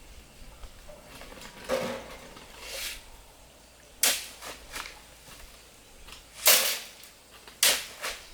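Four sharp knocks or scrapes spread a second or two apart, each dying away quickly, with quiet between them.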